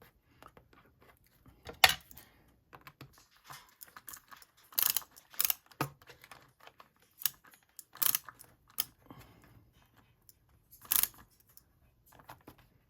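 Irregular small clicks and taps of hands working a tiny screwdriver and a two-piece screw post into a hole punched through a journal, with a few sharper knocks against the work surface.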